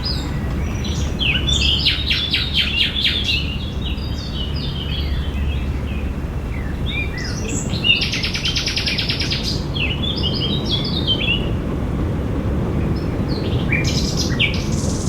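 Several songbirds singing and chirping in a park over a steady low background rumble, with rapid trills about a second and a half in and again around eight seconds, and more calls near the end.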